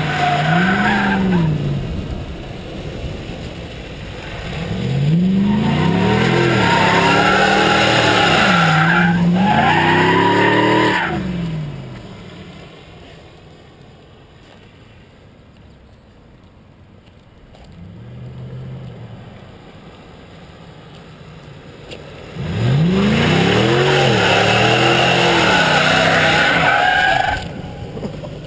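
Chevy 1500 pickup drifting: the engine revs up and down repeatedly while the tyres squeal, in three loud spells, with a quieter stretch of low engine running around the middle.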